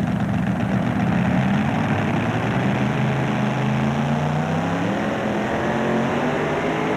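Super-modified two-wheel-drive pulling truck's engine at full throttle, hauling the weight sled down the track. The pitch climbs slowly, then dips about five seconds in.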